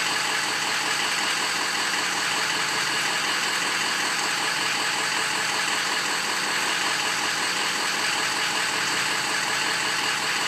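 Diesel V8 truck engine idling steadily. A scan of this engine shows cylinders 1, 2, 5 and 7 contributing weakly.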